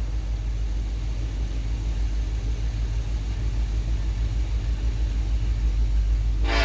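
Diesel locomotive engines rumbling steadily as a train runs past, between horn blasts. A new horn blast starts right at the end.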